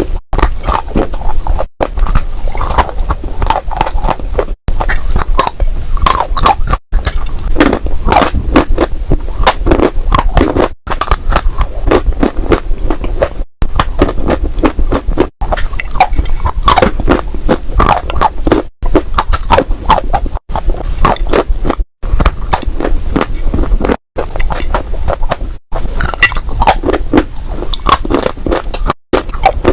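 Crunchy clay being crushed up close, a dense run of crackling, crisp crunches. It comes in short bursts cut off abruptly by brief silences every couple of seconds.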